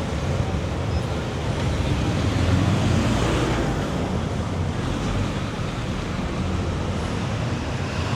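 City street traffic: engines running and tyre noise, swelling as a vehicle passes close about three seconds in.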